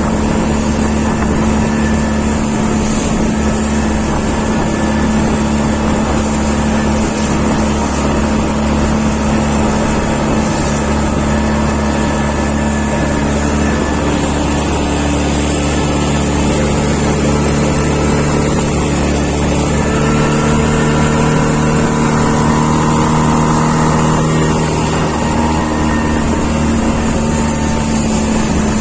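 An engine running steadily at a constant pitch. From about two-thirds of the way in, a second tone comes in and drifts slowly in pitch for a few seconds.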